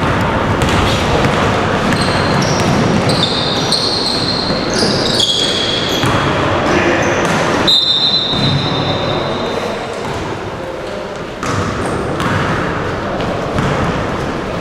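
Steady din of a busy indoor sports hall: voices in the background, a ball bouncing, and short high squeaks through the first half.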